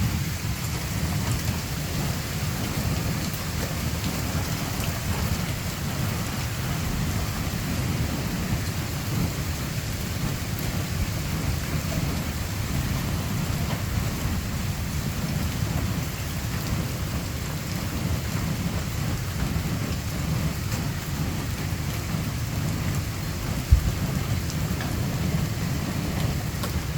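Heavy thunderstorm rain pouring steadily, with a constant low rumble underneath. One sharp thump lands near the end.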